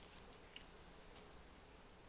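Near silence with a few faint, soft clicks of quiet chewing.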